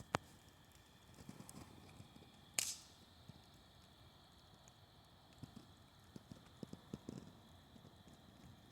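Bonfire crackling faintly, with scattered sharp pops; the loudest crack comes about two and a half seconds in, and a few smaller snaps follow near the end.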